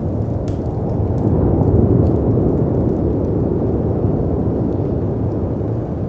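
Storm ambience: a steady deep rumble of wind and surf that swells briefly about a second or two in, with a few faint fireplace crackles over it.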